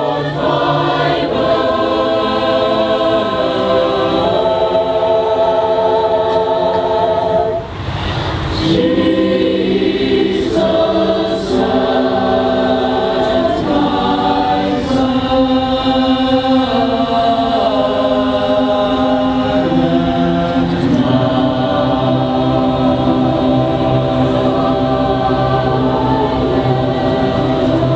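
Mixed choir singing a cappella in sustained, multi-part harmony, with a brief break between phrases about eight seconds in.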